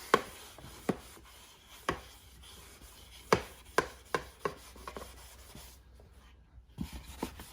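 Irregular light taps and knocks, about nine spread unevenly over several seconds, with the loudest a little past the middle.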